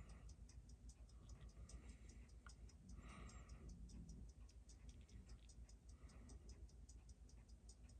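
Faint, even ticking of a running Seiko 6105 automatic watch movement, about six ticks a second.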